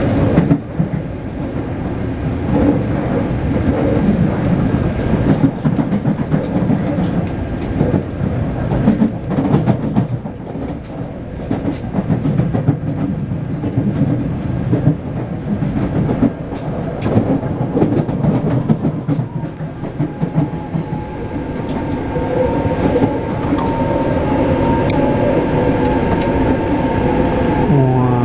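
Taipei Metro C381 electric train running between stations: steady rumble with wheels clattering on the rails. From about two-thirds of the way through, a steady electric motor whine joins in, and its pitch steps down right at the end.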